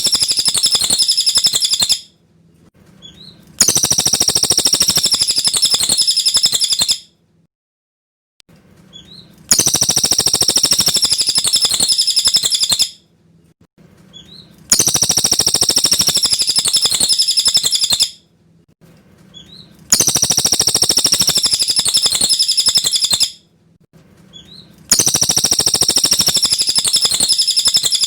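Cililin bird song: a high, trilling phrase about three seconds long, repeated at an even spacing with short pauses between, six times over.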